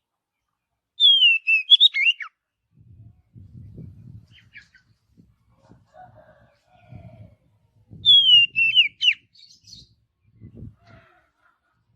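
Oriental magpie-robin (kacer) singing two short, near-identical phrases about seven seconds apart, each a high falling whistle that breaks into quick warbled notes. Faint low thuds are heard between the phrases.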